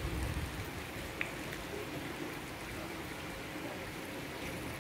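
Steady rain falling on wet pavement and puddles: an even hiss, with one faint tick about a second in.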